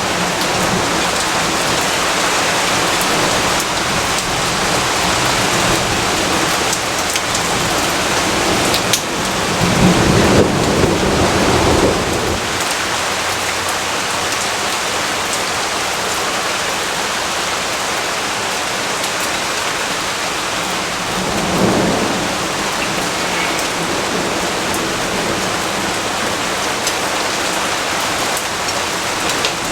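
Steady heavy rainfall hissing on surfaces, with a low rumble of thunder swelling for about three seconds around ten seconds in and a shorter, fainter rumble a little past twenty seconds.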